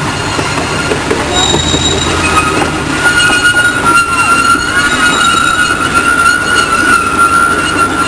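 Miniature train running on its track, its steel wheels squealing against the rail with a steady high-pitched tone that comes in about a second in and grows louder, over the rumble of the cars.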